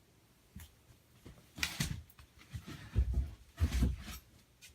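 Hunter Coastal Breeze ceiling fan coasting down after being switched off, a faint low hum under a few irregular rubbing noises and two dull thumps in the second half.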